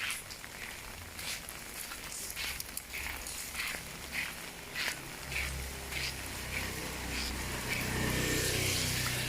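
Footsteps on wet ground at a walking pace, about one or two steps a second, over steady rain. From about halfway through, a motor vehicle's engine comes closer and grows louder, loudest near the end.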